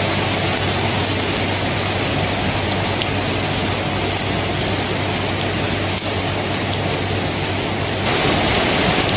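Steady, heavy rainfall, a dense even hiss that grows louder and brighter about eight seconds in.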